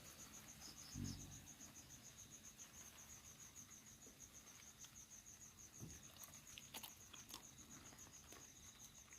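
Faint insect chirping, an even high-pitched pulse of about five chirps a second, typical of a cricket. A soft thump about a second in and a few small clicks later on.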